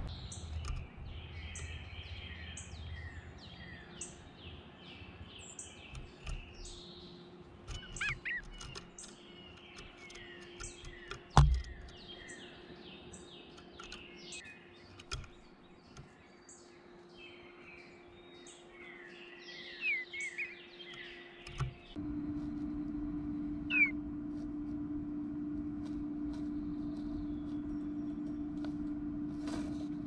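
Songbirds chirping and calling in a busy run of short notes, with one sharp knock about eleven seconds in. About two-thirds of the way through the calls drop away abruptly and a steady hum takes over, with only an occasional chirp.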